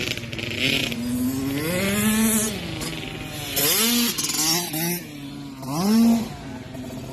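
Dirt bike engine revving hard, its pitch climbing and dropping off again four or five times as the throttle is opened and closed.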